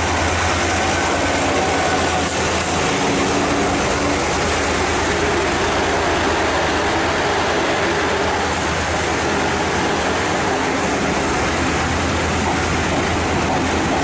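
Departing passenger train passing close by: the diesel locomotive R108's engine drone is strong at first and fades about three seconds in as it moves off, leaving the steady rolling noise of the carriages' wheels on the rails.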